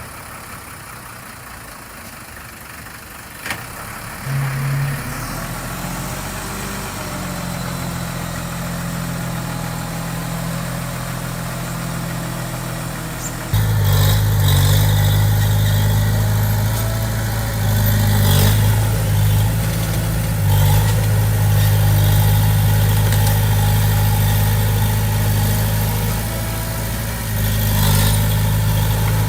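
Diesel engine of heavy construction equipment running steadily, becoming abruptly louder about halfway through and staying loud.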